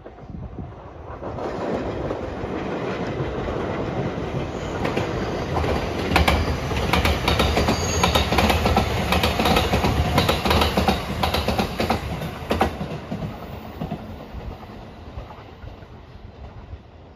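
Rapid Marine Liner electric train passing close by. The rumble builds, and in the middle comes a quick run of clacks as the wheels cross the rail joints. The noise then fades as the train moves away.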